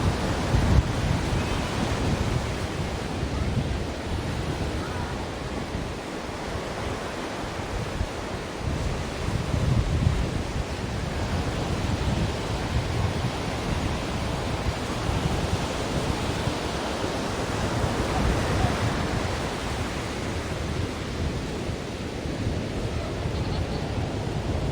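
Ocean surf: a continuous rush of breaking waves that swells every several seconds, strongest in the low rumble.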